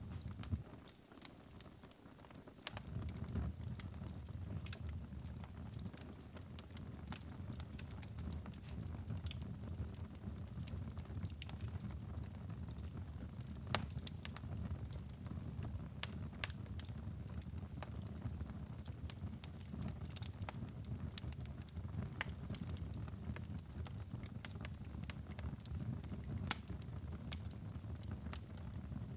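Fire burning in a fireplace: a steady low rumble of flames under frequent sharp crackles and pops. The low rumble dips briefly about a second in, then returns.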